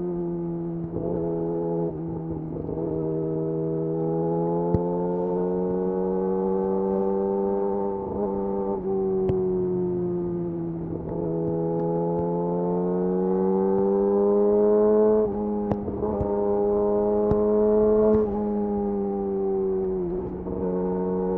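Yamaha YZF R6 inline-four with a de-catted Akrapovic slip-on exhaust running under way at steady, fairly high revs, its pitch rising and falling gently with several brief dips.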